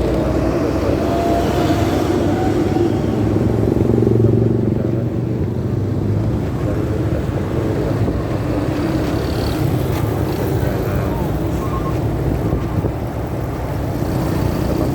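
Motorcycle riding noise picked up by a phone in a pocket: a steady, muffled engine and road rumble, heavy in the low end. A faint rising tone comes in about a second in.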